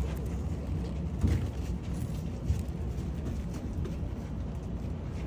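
Steady low rumble of an engine running, with a sharp thump about a second in and a lighter knock a second later.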